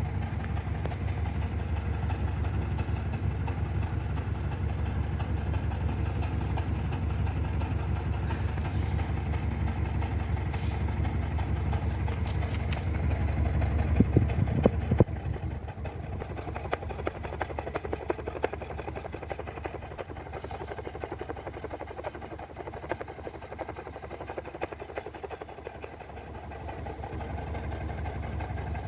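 Audi 3.0 TFSI supercharged V6 idling steadily after a carbon-cleaner treatment through the intake. About halfway through there are a couple of sharp clicks, and then the engine sound becomes quieter.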